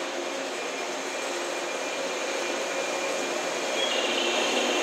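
JR West 113 series electric train rolling slowly along a station platform, with a steady running noise from its motors and wheels that grows louder near the end. A thin higher whine joins about four seconds in.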